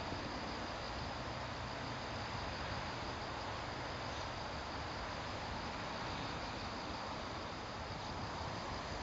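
Steady rushing of a swollen river running high with floodwater after a typhoon.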